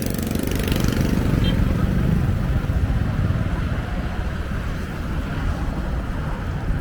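Steady low rumble of motor vehicles in the street.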